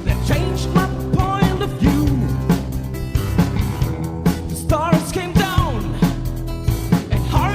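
Rock band playing: drums, bass and electric guitar, with a melodic line that bends in pitch.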